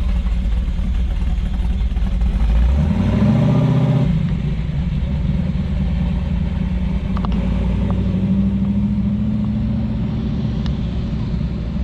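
Car engines running with a deep low rumble. One engine revs up briefly about three seconds in, then settles into a steady run that climbs slowly in pitch.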